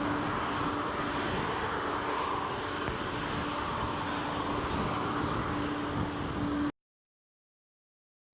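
Steady jet aircraft noise across the airfield with a faint steady hum, cutting off abruptly to dead silence near the end.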